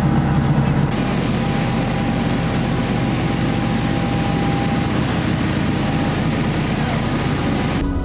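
Boat engine running steadily under a loud rush of wind and water noise over the microphone.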